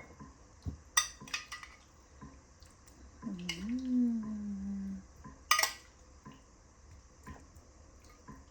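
A spoon clinking and scraping against tiffin containers as vegetable curry is spooned in: scattered sharp clinks, the loudest about a second in and just past the middle. There is a brief low hum near the middle.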